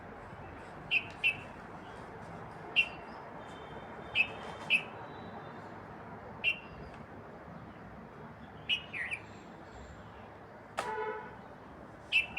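Birds chirping: short, sharp chirps every second or two over a steady background hiss. One short, nasal, horn-like tone sounds near the end.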